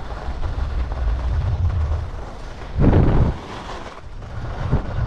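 Wind rumbling and buffeting across the microphone of a skier moving on firm groomed snow, with a hiss from the skis and a louder rush about three seconds in.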